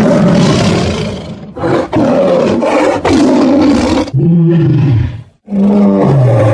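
A big cat roaring repeatedly, loud and rough at first, then two lower calls that fall in pitch.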